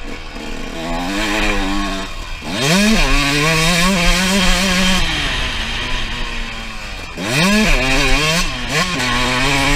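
Suzuki RM125 single-cylinder two-stroke dirt bike engine revving hard under acceleration. Its pitch climbs sharply about two and a half seconds in and again about seven seconds in, holding steady between, with a short blip near the end.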